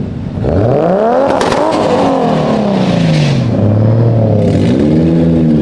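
Car engine revved hard: the pitch climbs sharply to a peak about a second and a half in, falls back over a couple of seconds to a steady low note, then climbs again near the end.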